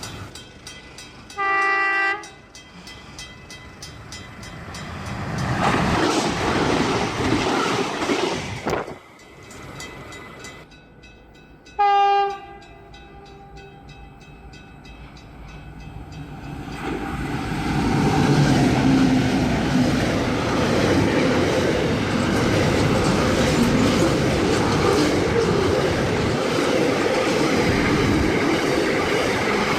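Train horn sounding two short blasts, one about a second and a half in and another about ten seconds later. Between and after them, trains pass at speed with a noisy rush of wheels on rail; a loud, steady passing rumble takes over for the second half.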